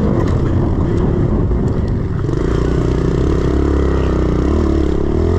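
110cc four-stroke single-cylinder pit bike engine running under throttle while riding a dirt track. The note is rough and noisy at first, steadies about two seconds in, and rises and falls with the throttle.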